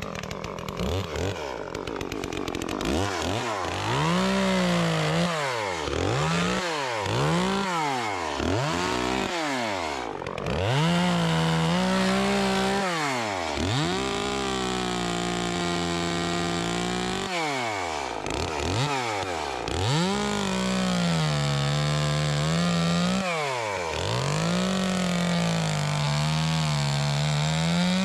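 Chainsaw revving up and down in quick blips, then held at full speed for several seconds at a time while cutting through wood.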